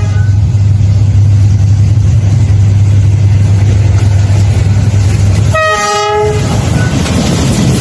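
Train running past with a loud, steady low rumble. Its horn sounds at the very start and again briefly, for under a second, about five and a half seconds in.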